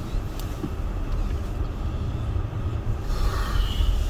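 Steady low rumble inside a car, engine and road noise, with a short higher-pitched hiss about three seconds in.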